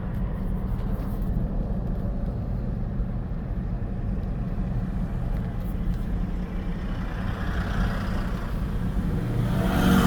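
A vehicle engine running steadily with a low hum. In the last few seconds a broader rushing noise rises and grows louder.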